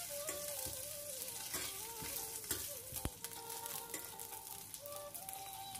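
Gentle sizzling of garlic and green chillies frying in mustard oil in a stainless steel pan on low flame, with a spatula stirring and scraping. A soft background melody plays along.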